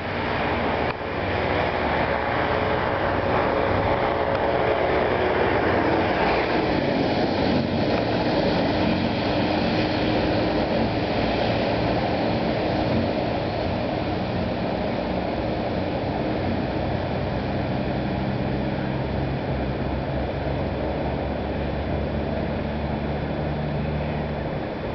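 A motor vehicle running steadily, a low engine hum under a constant rushing noise.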